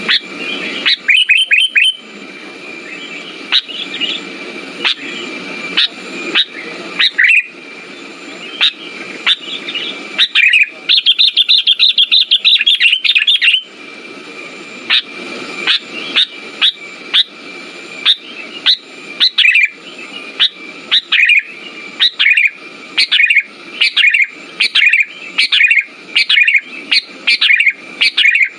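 Sooty-headed bulbul calls, a lure recording for a bulbul that has gone quiet: a long run of short, sharp chirps, with a rapid trill of chirps for about three seconds some ten seconds in, and quicker chirping near the end. A faint steady high tone lies underneath.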